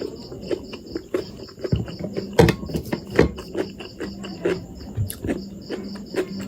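A cricket chirping steadily, about five high chirps a second, under close-miked mouth clicks and smacks of someone eating. The loudest smack comes about two and a half seconds in, and a low steady hum comes in just before two seconds.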